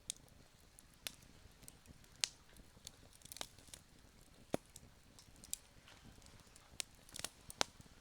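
Campfire crackling: burning wood giving off irregular sharp pops and snaps, a few standing out louder, over a soft steady hiss.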